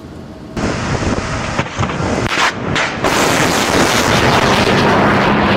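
A missile launching right after the firing command: a sudden rushing roar from its rocket motor about half a second in, building to a loud, steady roar from about three seconds on.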